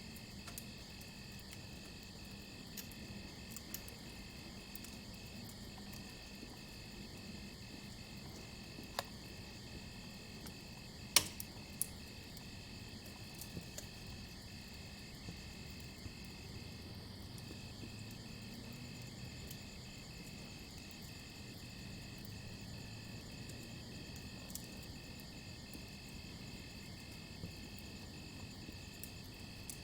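Crickets chirping in a steady pulsing rhythm over the low hiss of a campfire, with a few sharp crackles from the burning wood, the loudest pop about 11 seconds in.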